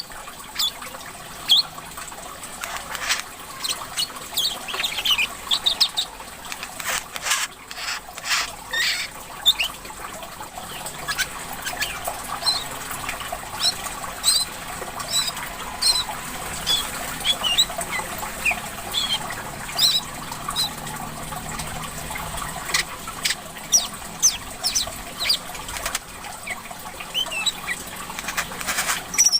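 Brown-throated sunbird (kolibri kelapa) calling in a rapid run of short, high chirps and sharp ticks, over a steady trickle of water.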